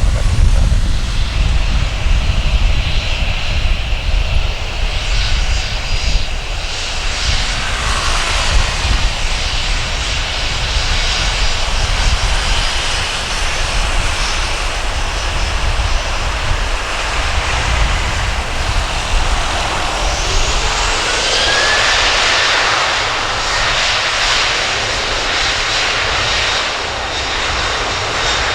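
Boeing 737-800's twin CFM56 jet engines at takeoff thrust as the airliner departs, a steady heavy rumble with a jet hiss that grows stronger about two-thirds of the way through.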